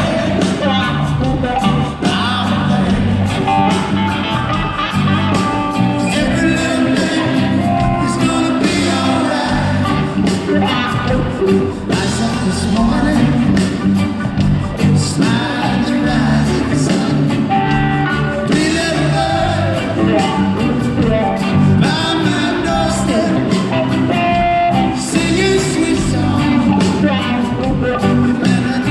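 Live Southern rock band playing a song with a lead singer; guitar and a steady rhythm section under the vocals, with no break.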